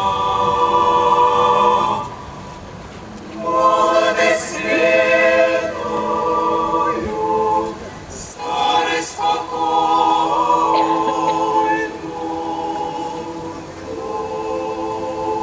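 A group of voices singing a slow song together without accompaniment, holding long notes, with short pauses between phrases about two seconds in and again near eight seconds.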